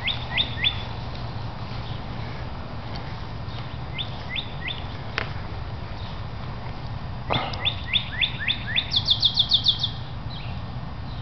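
Songbird singing outdoors: short phrases of quick downslurred whistled notes, repeated a few times, then a fast high trill near the end. A single sharp knock comes about two-thirds of the way in, over a steady low rumble.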